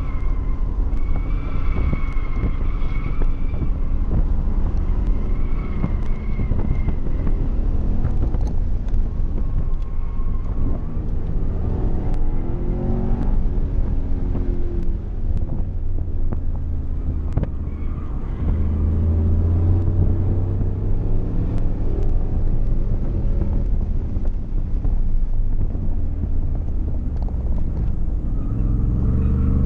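Chevrolet Camaro engine heard from inside the cabin, running steadily under load, its pitch rising several times as the car accelerates and dropping back in between. A wavering high tone comes and goes a few times in the first ten seconds.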